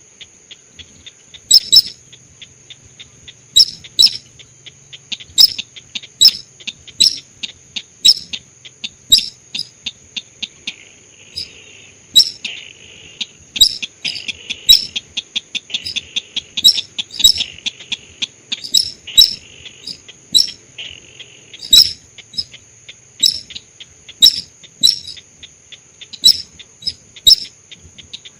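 Lure call of the sintar sawah, a rice-field bird: loud, sharp, short call notes repeating irregularly, about one or two a second. A softer buzzy chatter joins for several seconds midway.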